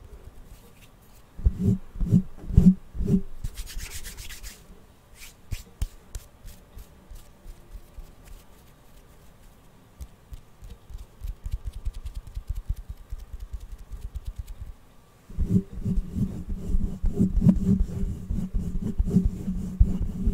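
Close-miked ASMR rubbing: four soft, dull knocks about a second and a half in, a brief hiss, scattered light rubbing, then steady dense rubbing from about fifteen seconds in.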